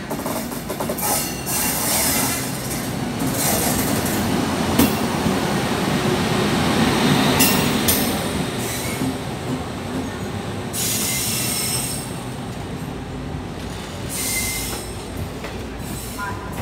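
Passenger express train hauled by a WAP-7 electric locomotive rolling past, its wheels on the track making a steady rumble. It is loudest about six to eight seconds in, with short high-pitched bursts breaking in every few seconds.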